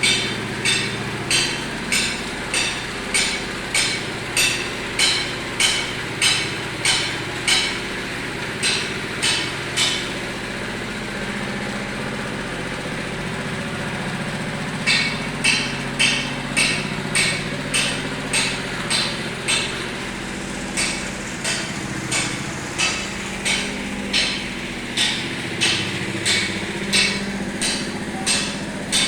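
Steady engine hum with a regular series of sharp knocks, about one and a half a second, from work on fresh concrete. The knocks stop for about five seconds partway through, then pick up again at the same pace.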